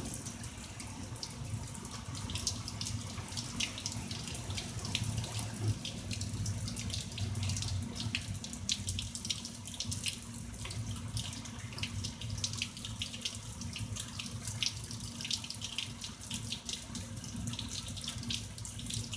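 Heavy rain pouring steadily, with dense splashing and spattering of drops.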